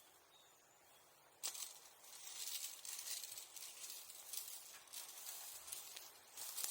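A dry, uneven rustling hiss that starts suddenly about a second and a half in and keeps going, rising and falling in level.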